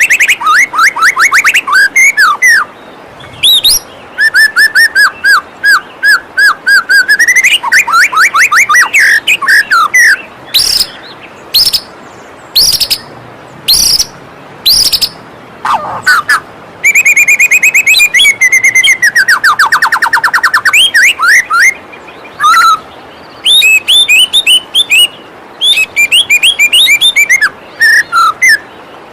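White-rumped shama singing a long, fast and varied song of whistles, rapid trills and quick repeated notes, with short pauses between phrases, over a steady rush of flowing water.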